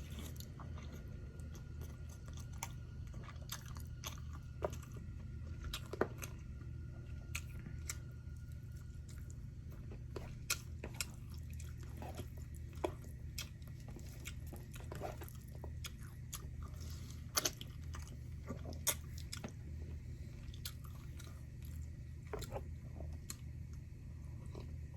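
A person chewing and biting food: scattered crisp crunches and clicks over a steady low hum.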